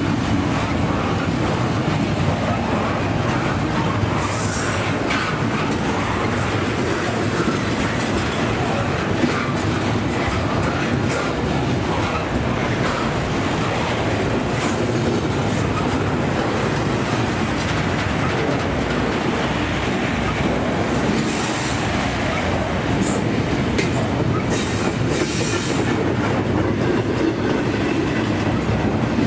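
Double-stack container train of well cars rolling past close by: a steady rumble of steel wheels on rail with clickety-clack over the joints, and brief high wheel squeals a few times.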